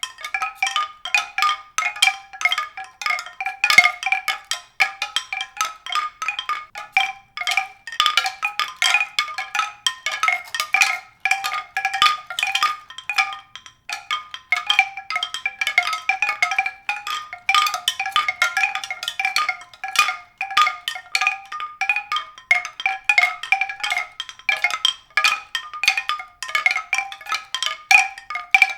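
Bright tuned percussion: many high struck notes ringing in quick, uneven succession, with nothing in the low range.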